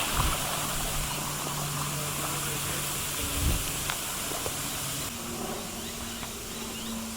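Steady rushing of a creek or waterfall, an even hiss of water, with a faint low steady hum underneath that shifts higher about five seconds in.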